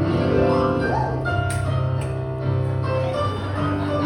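Piano music playing held notes over a steady bass line.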